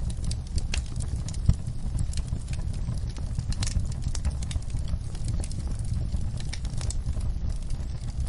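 Wood fire burning in a fireplace: a steady low rumble of flames with frequent irregular crackles and pops, one sharper pop about a second and a half in.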